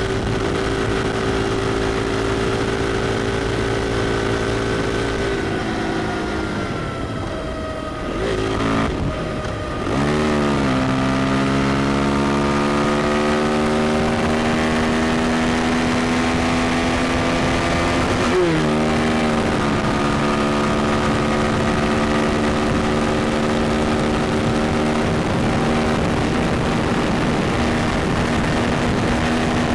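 KTM Duke 390's single-cylinder engine under way: it holds steady revs, then the revs fall off about six seconds in. About ten seconds in it pulls again with the pitch climbing slowly, dips briefly at a gear change near the middle, and then holds high revs to the end.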